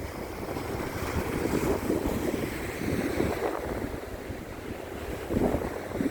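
Ocean surf washing onto a sandy beach: a steady wash of breaking waves that swells a few times. Wind buffets the microphone with a low, uneven rumble.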